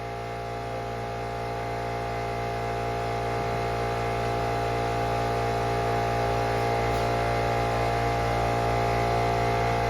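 A steady mechanical hum made of several fixed tones, slowly growing louder.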